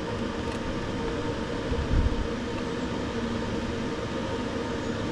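Steady machine hum with a few faint steady tones, and a short low thump about two seconds in.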